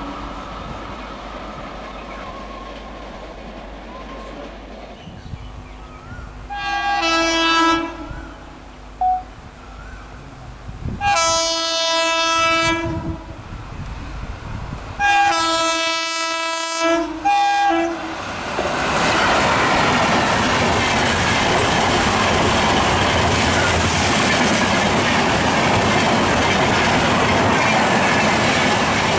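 Indian Railways express train horn sounding three long blasts and one short one as the train approaches. The train then passes at high speed, with loud, steady wheel-and-rail noise and clickety-clack.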